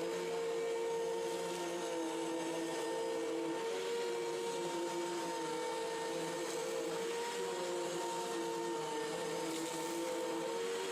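Hoover WindTunnel Pet Rewind bagless upright vacuum cleaner running: a steady motor whine over rushing airflow.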